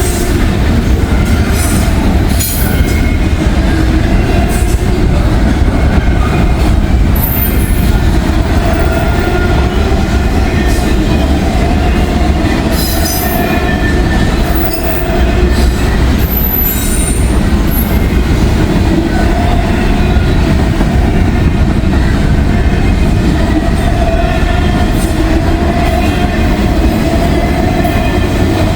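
Long freight train rolling past close by: a steady heavy rumble of cars on the rails, with wheels squealing in wavering high tones.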